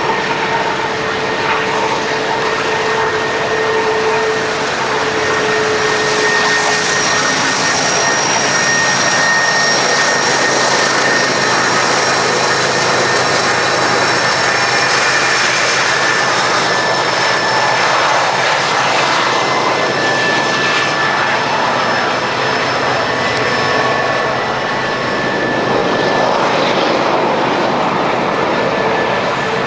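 Train rolling past: a loud, steady rush of rail noise with thin, high wheel squeals that come and go.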